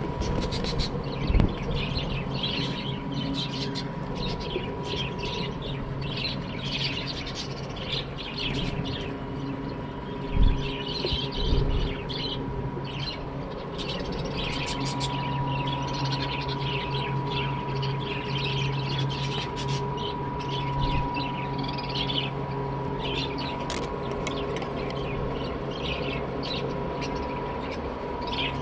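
Budgerigars chirping and chattering in many short, quick calls over a steady background hum, with a few low thumps about a second in and around a third of the way through.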